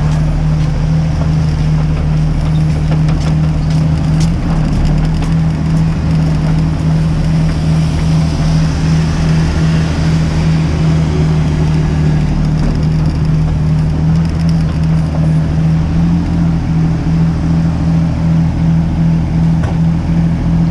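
Mini excavator's diesel engine running steadily, a loud even drone with a strong low hum.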